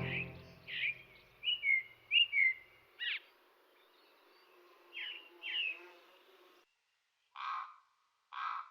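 Wild birds calling, with background music fading out in the first second. The calls are short downward-sweeping chirps, several in the first three seconds and two more about five seconds in. Near the end a lower call repeats about once a second.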